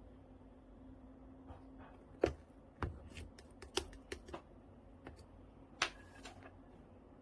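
Light purple slime being worked by hand, giving irregular sharp clicks and pops, about a dozen of them, the loudest a couple of seconds in and near six seconds in.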